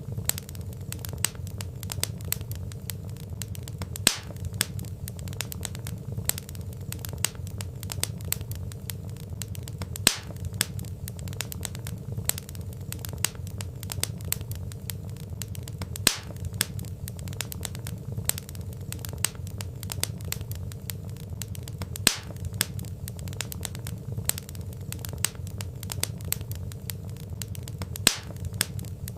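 Wood fire crackling: burning logs give off frequent small sharp pops over a steady low rumble, with a louder pop about every six seconds.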